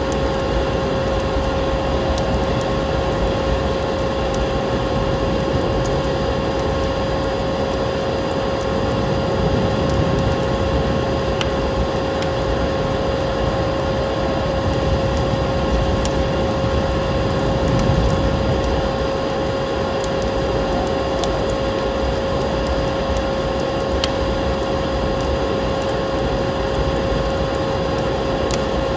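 Wood fire crackling in a fireplace: scattered sharp pops and clicks over a steady rushing noise, with a constant tone held underneath.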